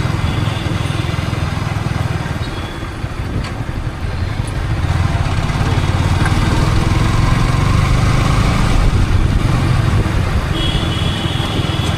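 Yamaha R15 V3 motorcycle's 155 cc single-cylinder engine running under way, mixed with road noise; it eases off about three seconds in and builds again a couple of seconds later. A short horn-like tone sounds near the end.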